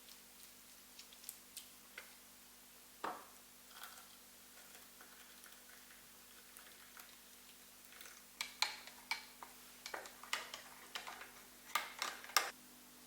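Light clicks and taps indoors, scattered at first and then coming quickly in a busier cluster through the second half, over a faint steady hum.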